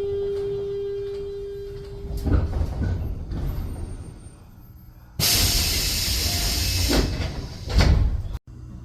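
Commuter train doors: a steady tone for about two seconds, then the sliding doors knocking shut, a loud air hiss from about five seconds in, and another thump near the end before the sound cuts off abruptly.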